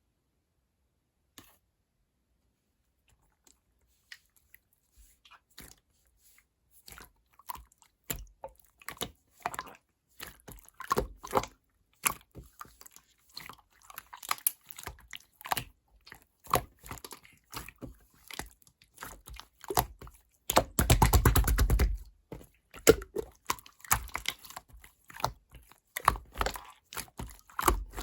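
Slime being squeezed and kneaded by hand: sticky clicks and small air-pocket pops, sparse at first and then coming thick and fast, with a quick loud run of pops about three quarters of the way in.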